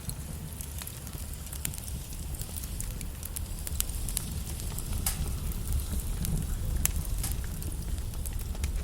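Wood log fire in a fireplace crackling, with irregular sharp pops over a steady low rumble of the flames.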